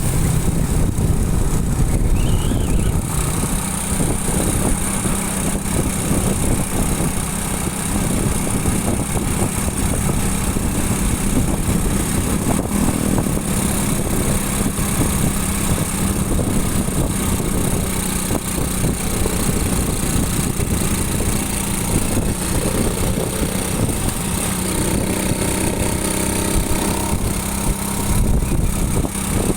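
Motorcycle engine running steadily during a ride, with wind rumbling on the microphone. Near the end a second, higher engine note joins in.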